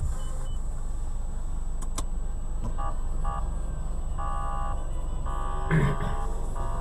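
Car driving: a steady low engine and road rumble, with tones that come and go, and a brief louder sound a little before the end.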